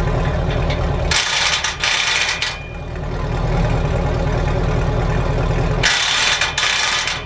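Car engine idling through a straight-piped exhaust with a steady low rumble, while the exhaust is checked for leaks at a clamp. Twice, about a second in and again near the end, a loud hiss-like burst of noise lasting a second or so cuts across it.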